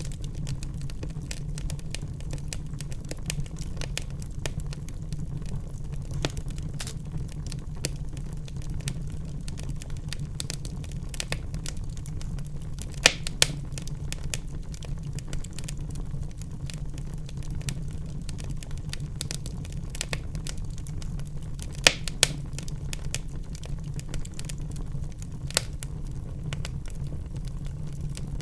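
Wood fire in a fireplace crackling, with many small snaps over a steady low rumble. A few louder pops stand out, two close together near the middle and one about three-quarters of the way through.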